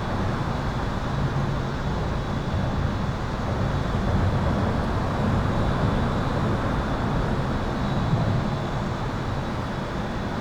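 Highway traffic heard from beneath an overpass: a continuous low rumble and wash of tyre noise that swells a little as vehicles pass overhead, with a thin steady high-pitched tone running through it.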